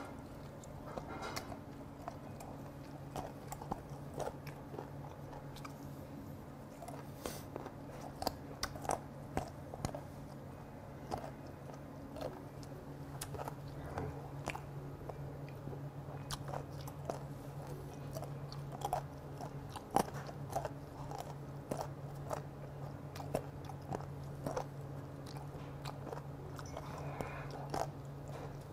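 Close chewing of fermented skate (hongeo), with many irregular crunches as the cartilage is bitten through, over a steady low hum.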